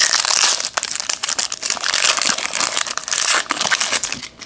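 Crinkling and crumpling of a trading-card pack wrapper being handled, a dense, continuous crackle that dies away shortly before the end.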